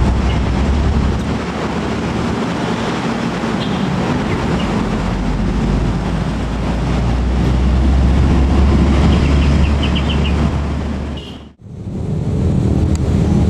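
Passenger train running along the track, with a steady low rumble and rail noise. The sound cuts off abruptly about eleven and a half seconds in, and a steady rushing noise takes over.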